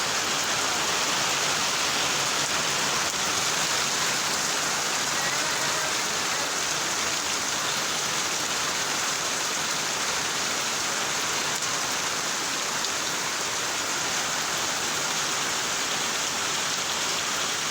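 Rain falling steadily, a dense, even hiss that holds unchanged throughout.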